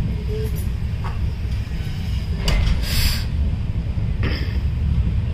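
Steady low rumble of a moving train heard from inside a sleeper coach, with two short bursts of hiss near the middle.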